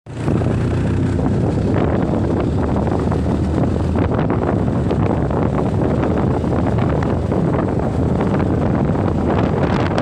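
Heavy wind buffeting the microphone on a moving motorbike, with the ride's road and engine noise under it.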